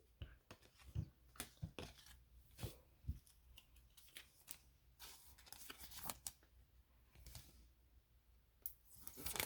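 Faint handling of trading cards: scattered soft clicks and brief rustles as cards are slid and flipped.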